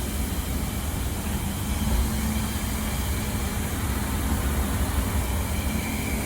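Steady low rumble with a faint constant hum, like a running engine or passing traffic, with no distinct knocks or clicks.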